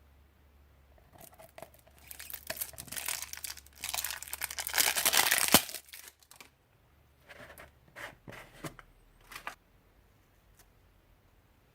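Thin plastic crinkling and tearing: a dense crackling that builds from about a second in, is loudest near the middle and stops abruptly, followed by a few short crinkles.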